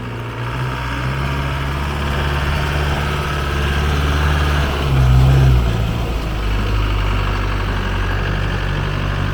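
Land Rover 200Tdi four-cylinder turbodiesel engine running steadily, briefly rising in pitch and getting louder about five seconds in, then settling back.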